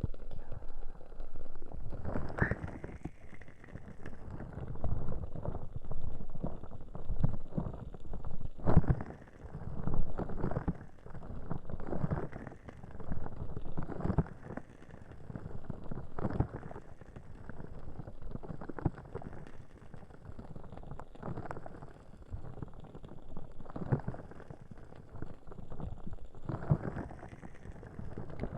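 Ear cupping on the silicone ears of a 3Dio binaural microphone: repeated muffled swells and rubbing about every two seconds as the ears are covered, pressed and released.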